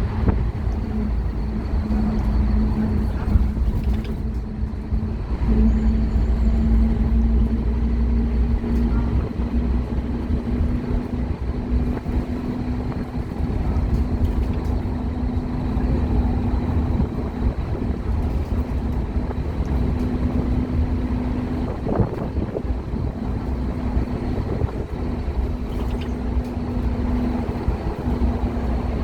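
Scania K230UB Omnilink bus's diesel engine running steadily under way, a low rumble with a constant whining tone above it.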